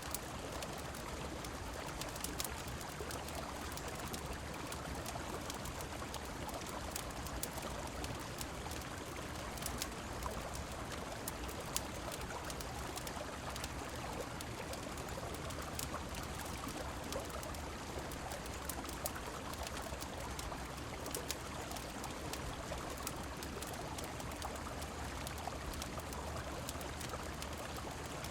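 Rushing river water with rain, a steady even flow, with scattered sharp crackles and ticks throughout.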